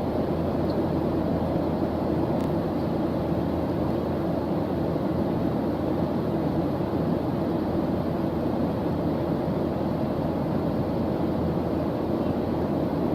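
Steady low, rumbling noise track of the white-noise kind, unchanging throughout, with most of its weight in the low end.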